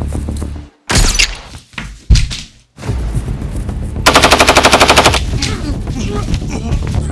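Film battle sound effects: an automatic rifle firing a rapid burst of about a dozen shots about four seconds in, over a steady low rumble. Two single loud shots or impacts come earlier, each cut off sharply.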